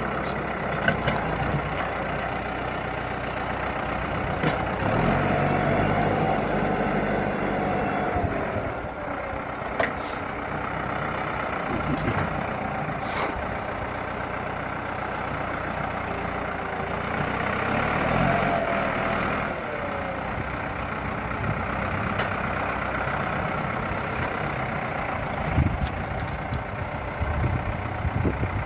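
Valmet 705 tractor's diesel engine running and revving up twice, about five seconds in and again about seventeen seconds in, with a few knocks in between, as the tractor tries to move its loaded forest trailer on an icy, snowy track.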